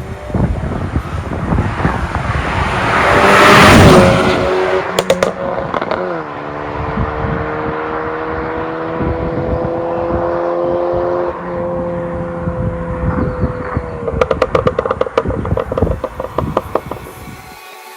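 Lexus 8AR-FTS 2.0-litre turbocharged four-cylinder through an MS-R valved dual cat-back exhaust. It revs up to a loud peak about four seconds in, then holds a steady drone that climbs slowly in pitch and drops off. It ends with a quick run of crackles.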